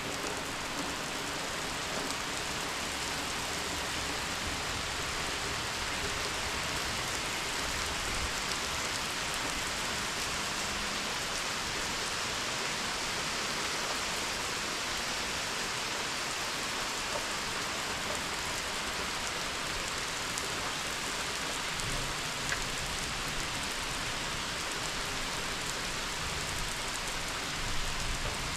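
Steady rushing and splashing of water, even throughout.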